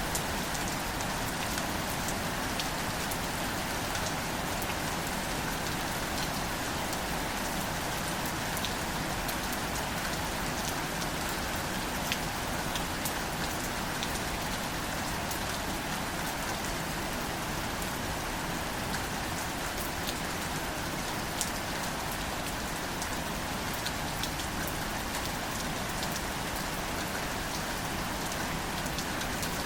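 Steady, gentle rain, with many separate drops ticking close by.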